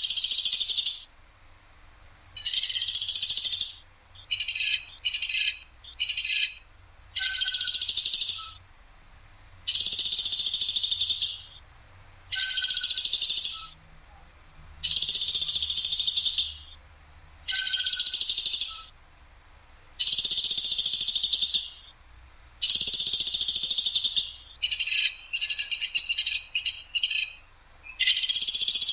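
Platuk sampit (an Indonesian 'platuk', woodpecker-type bird) giving sharp, harsh, high calls, each a rapid trill about a second long. The calls repeat every one to two seconds, with some shorter clipped calls in quick runs. It is a masteran recording used to tutor caged songbirds.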